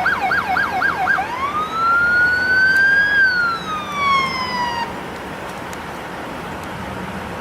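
Electronic emergency-vehicle siren: a fast yelp that about a second in changes to one slow wail, rising and then falling, which stops about five seconds in. A steady hiss remains after it.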